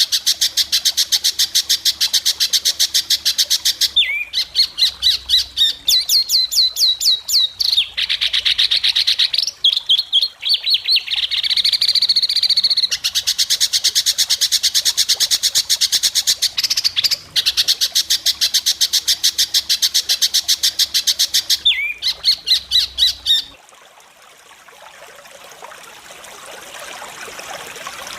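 White-rumped shama singing loud, rapid runs of sharp repeated notes (the prized 'besetan' trills), broken by short pauses and a few gliding whistled phrases. The song stops about 23 seconds in, leaving a faint rising hiss.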